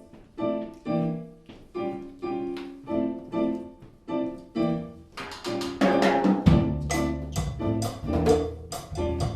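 Live Latin jazz band playing a cha-cha: piano chords repeat in a steady rhythm about twice a second. Hand percussion joins about five seconds in, and string bass joins about a second and a half later.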